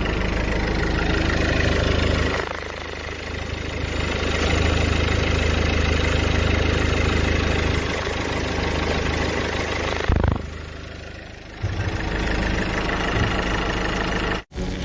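A car engine running, heard in several short segments that change abruptly, with a sudden cut near the end.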